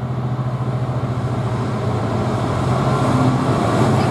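Class 66 diesel freight locomotive approaching, its EMD two-stroke V12 engine giving a steady low drone that grows louder.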